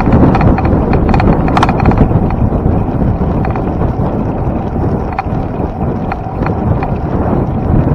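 Heavy wind buffeting the microphone of a camera on a moving bicycle, with scattered clicks and rattles.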